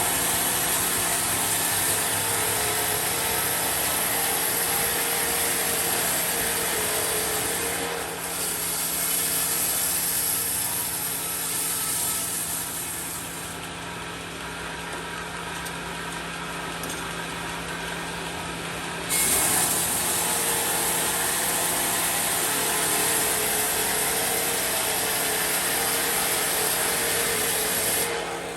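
Sawmill saw running and cutting through wood: a steady machine hum under a high hiss from the cut. The hiss drops away about halfway through, comes back suddenly a few seconds later, and fades again just before the end.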